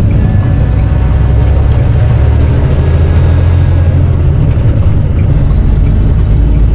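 Tractor-trailer's diesel engine and road noise heard from inside the cab while driving: a steady, loud low rumble.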